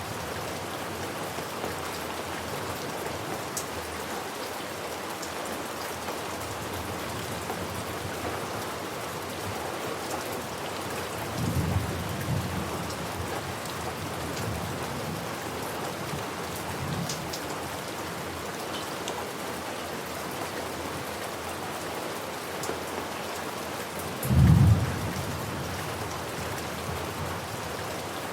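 Steady rain falling, with two short low thunder rumbles: a softer one about halfway through and a louder one near the end.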